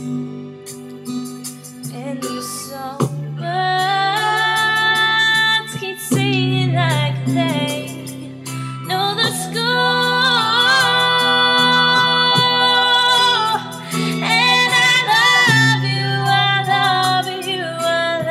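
A woman singing a slow ballad over a piano karaoke backing track, holding long notes with vibrato.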